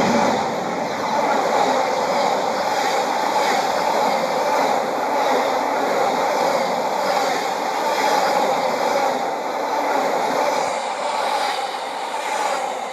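A train passing at speed: a loud, steady rush of wheels on rail that dies away near the end.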